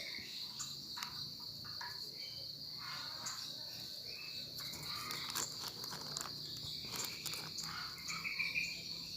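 Insects in the field, likely crickets, trilling steadily at a high pitch, with scattered short clicks and rustles over it.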